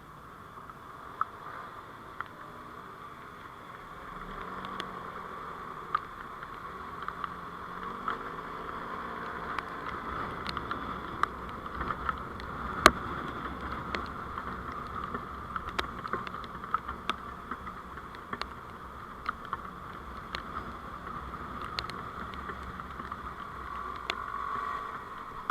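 Vehicle on the move, heard through a dashcam: steady engine and road noise with scattered small clicks and ticks. A low rumble comes in about four seconds in.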